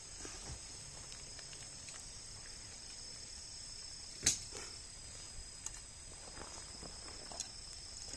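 Insects trilling in steady, continuous high tones, with a few sharp clicks or knocks over them; the loudest click comes about four seconds in.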